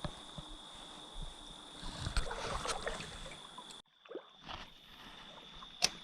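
Creek water running, with a cluster of rustling, handling sounds in the middle, a sudden dropout about two thirds of the way in, and a sharp click near the end.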